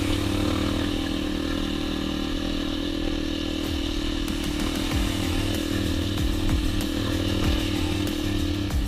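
Dirt bike engine running steadily with a high, even buzz.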